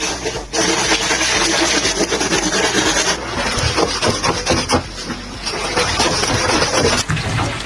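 A bristle cleaning brush scraping back and forth in the gap under a front-loading washing machine's drum, a rough rasping scrub, over a steady low hum.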